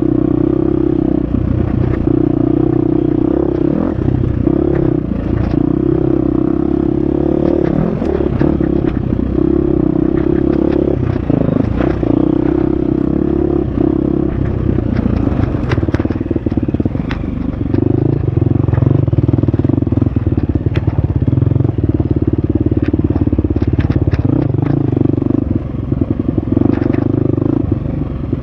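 Husqvarna FX 350 dirt bike's single-cylinder four-stroke engine running under load on a rough trail, its note rising and falling with throttle and gear changes. Scattered clatter and clicks from the bike and trail run through it.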